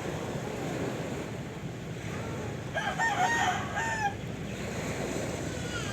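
A rooster crowing once, about three seconds in and lasting about a second, over steady surf of sea waves.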